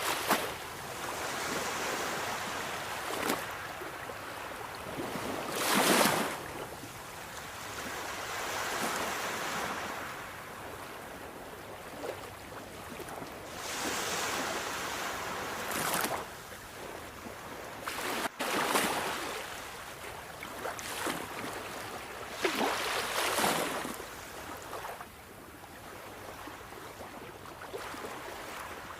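Sea waves breaking and washing on a shore, a steady hiss of surf that swells and falls, with the strongest surges about 6, 16 and 23 seconds in.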